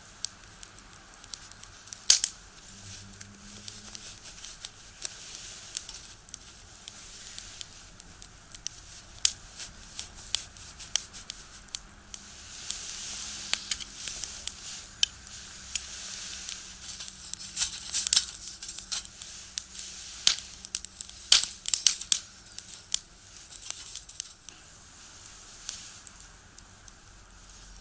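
Wood fire in a box stove crackling, with many irregular sharp pops of burning firewood and short stretches of hissing flame. The loudest pops come about two seconds in and again around eighteen and twenty-one seconds.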